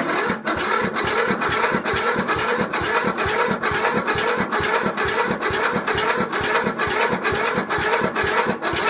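Lawn tractor's engine being cranked by its electric starter on a cold start, chugging over at about five or six strokes a second without catching, then cutting off near the end. The engine is hard-starting in the cold, and the owner blames a draining battery.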